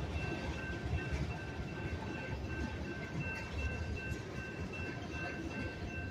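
Freight train tank cars rolling slowly over a grade crossing, a steady low rumble with occasional wheel clicks. Over it the crossing's warning bell rings in an even, repeating pulse.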